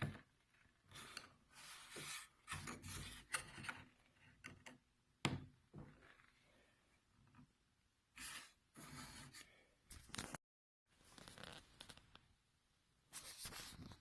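Faint handling noise: scattered scrapes and light knocks of a small wooden block and attachment being moved on a table saw table, with one sharper knock about five seconds in. The saw itself is not running.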